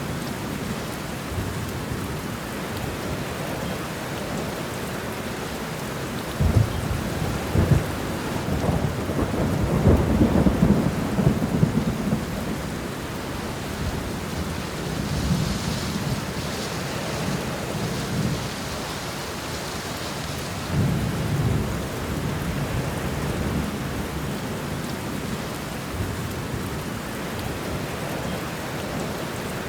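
Steady rain with rolling thunder. Sharp cracks come about six and eight seconds in, then a long, loud rumble around ten seconds, followed by softer rumbles in the second half.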